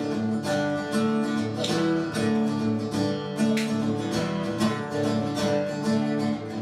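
Acoustic guitar strumming steadily in an instrumental break of a folk ballad, with no singing.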